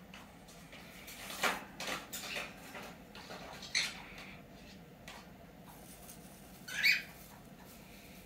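Pet birds in their hut making a few short, squeaky calls among soft rustles, the loudest call near the end.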